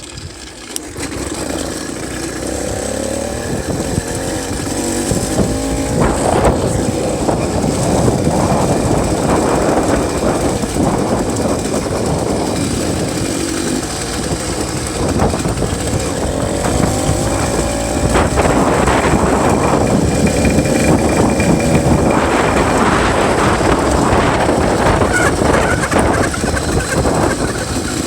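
66cc two-stroke bicycle engine kit running under way, its pitch rising and falling repeatedly with the throttle and growing louder over the first few seconds. Heard from a phone in the rider's pocket.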